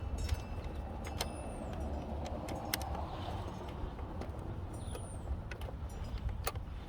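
Scattered small clicks and taps of metal mounting screws being handled and threaded in by hand, over a steady low rumble of background noise.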